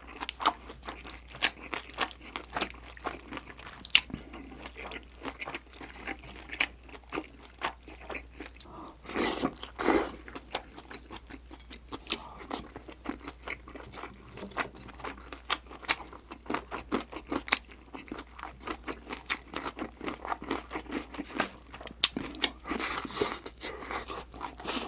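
Close-miked chewing and crunching of food, a steady run of wet mouth clicks and smacks, with louder crunchy bites about nine seconds in and again near the end.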